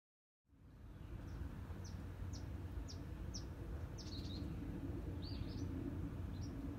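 Small birds chirping: a run of short, quick downward chirps about two a second, then a few more varied chirps, over a steady low outdoor rumble. The sound fades in from silence about half a second in.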